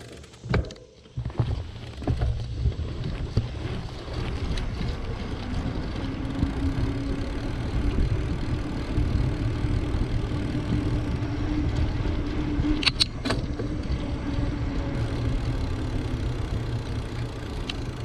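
Wind rumbling on the microphone and tyre noise from a bicycle rolling along a paved road, steady throughout, with a faint hum in the middle and two sharp clicks about thirteen seconds in.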